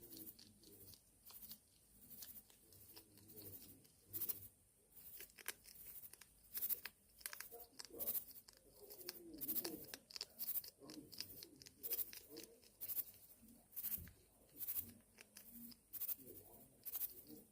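Hedgehogs making faint, rapid, irregular crackling and crunching sounds.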